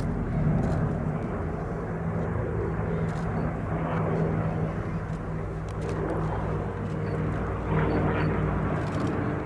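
Piston aero engines of a Second World War warbird droning steadily as the aircraft flies by overhead.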